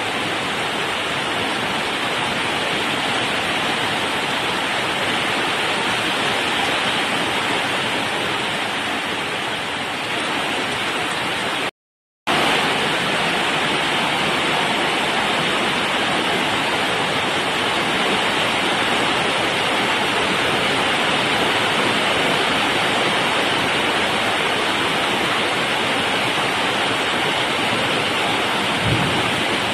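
Heavy rain pouring down in a steady, unbroken rush during a summer thunderstorm. The sound cuts out completely for a moment about twelve seconds in, then resumes.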